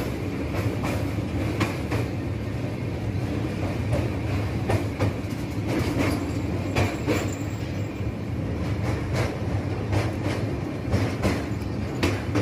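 Passenger train crossing a steel truss bridge, heard from inside the coach: a steady low rumble with repeated sharp clacks of the wheels over the rail joints.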